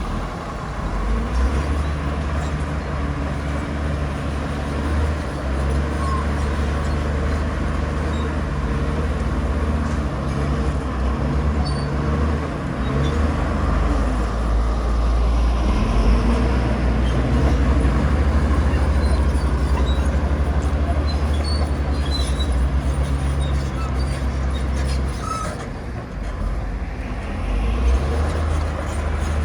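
Heavy diesel engine of earthmoving machinery running steadily with a deep low rumble, easing briefly about 26 seconds in and then picking up again.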